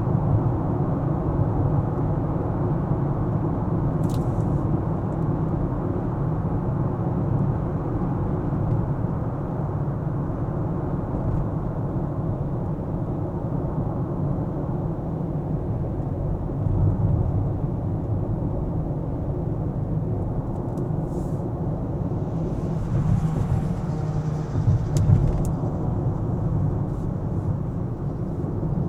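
Car driving on city streets: a steady low rumble of engine and tyres on the road, with a brief rise of hiss about three quarters of the way through.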